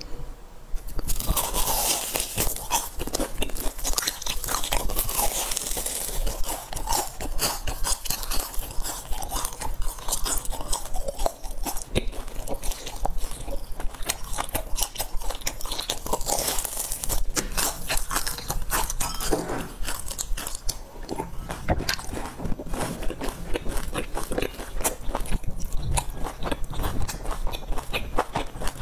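Close-miked crunching and chewing of the crisp, thin shell of a fried sesame ball, with dense crackling from about a second in as pieces are bitten off and chewed.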